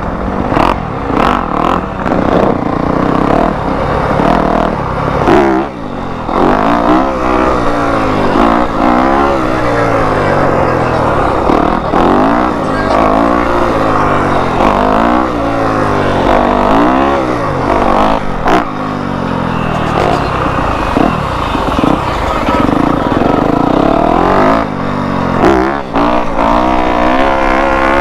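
2021 Yamaha YZ250F's four-stroke single-cylinder engine being ridden, its pitch climbing and falling again and again as the throttle is opened and closed through the gears.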